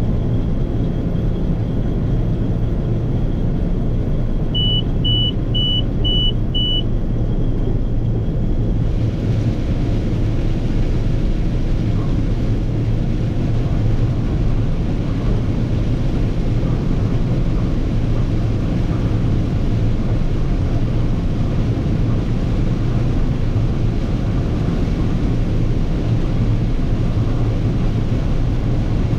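Massey Ferguson 9690 combine running steadily while shelling corn. Five short high beeps of its warning alarm sound about five seconds in, the signal that the grain tank is full. A brighter rushing noise joins about nine seconds in and carries on over the engine.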